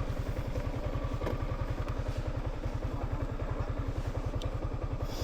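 Small motorcycle engine running steadily at low revs, a fast even pulse, with a couple of faint knocks from the bike on a rough road.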